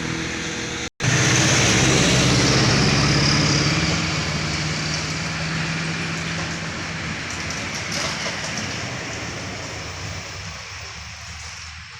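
A heavy road vehicle's engine running loud as it passes close, then fading steadily as it drives away. A brief cut in the sound comes about a second in.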